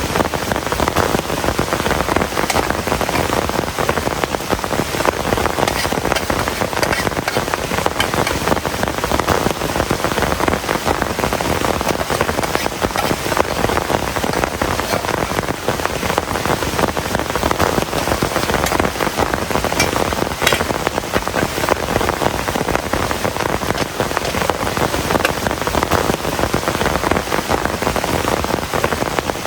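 Heavy rain falling steadily and densely, with individual close drops ticking through the downpour and one sharper drop hit about twenty seconds in.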